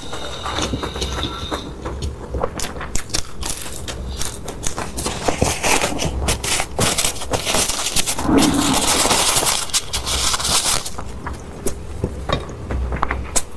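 Close-miked eating sounds: chewing with many small wet clicks and crunches, growing into a denser, noisier stretch from about six to eleven seconds in.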